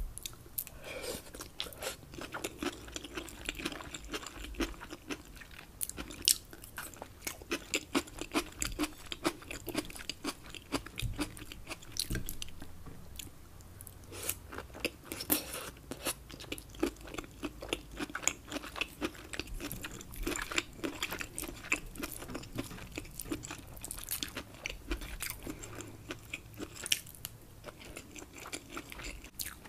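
Close-miked mouth sounds of a person chewing mouthfuls of rice with shrimp and scallops: a dense run of small clicks, with a short lull a little before the middle.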